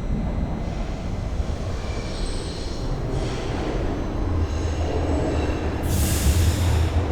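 Bombardier Toronto Rocket subway train running on the rails, a steady low rumble with faint high wheel-squeal tones. A brief high hiss comes about six seconds in.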